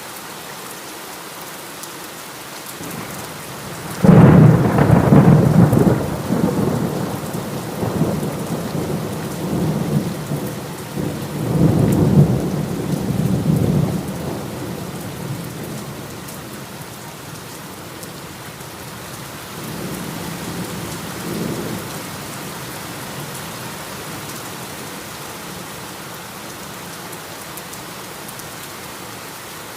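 Steady heavy rain with thunder: a loud clap breaks about four seconds in and rumbles on, a second roll swells around twelve seconds, and fainter rumbles follow near twenty seconds.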